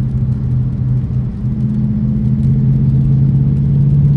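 Car engine running steadily at low revs, a deep even note that steps up slightly about a second in and again near the end.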